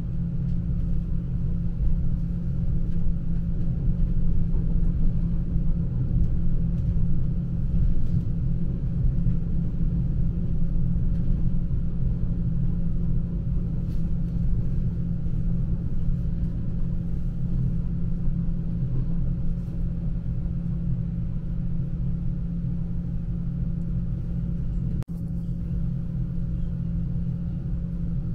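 S-Bahn electric train running between stations, heard from inside the train: a steady low rumble of wheels on the track with a faint steady hum. The sound drops out for a split second near the end.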